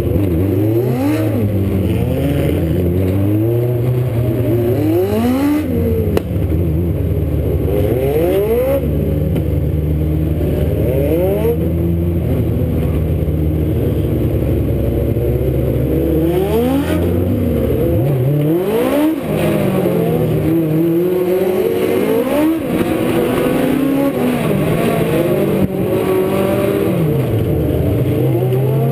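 Several Legends race cars' motorcycle engines running at racing speed, pitch rising and falling over and over as the cars rev, lift and pass by on the track.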